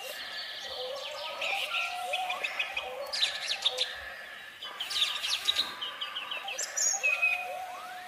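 Birds chirping and singing: bursts of quick, high chirps and trills, with a few rising whistles.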